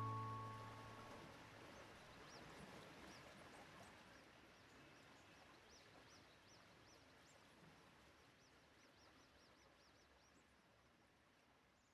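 Faint bird chirps, short and repeated two or three times a second, fading out, with the song's last guitar note dying away in the first second or so.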